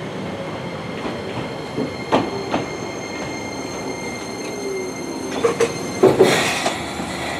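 Enoden electric train running on its rails with a steady rumble and a thin, steady high whine. A few sharp knocks come about two seconds in and again after five seconds, and a louder clatter about six seconds in.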